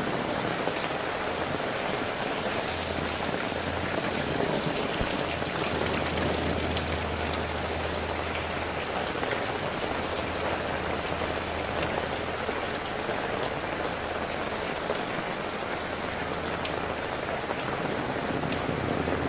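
Heavy rain falling steadily. A low, steady rumble sits underneath for much of it.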